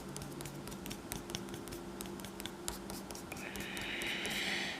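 Pencil-and-eraser work on paper: faint scratching and light ticks, then a steadier rubbing for the last second and a half or so.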